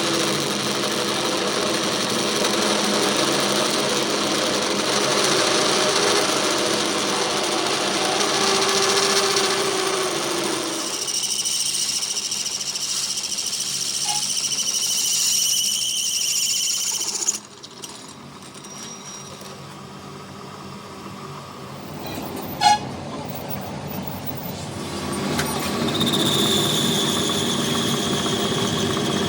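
Workshop machinery running steadily, then stopping abruptly a little past halfway. In the quieter stretch there is one sharp knock, and a machine runs again near the end.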